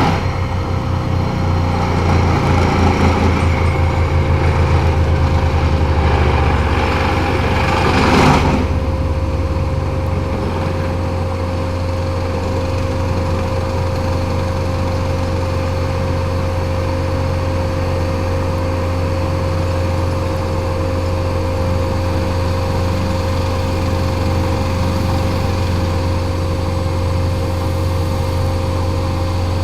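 Heavy diesel engine running, throbbing for the first several seconds and then settling into a steady drone. A brief loud burst of noise about eight seconds in.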